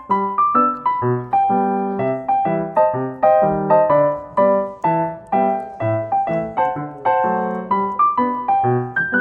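Background music: solo piano playing a gentle melody with chords, notes struck a few times a second.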